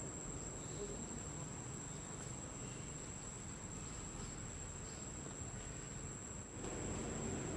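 Steady high-pitched insect drone of crickets, over a low rumbling background noise that grows louder about six and a half seconds in.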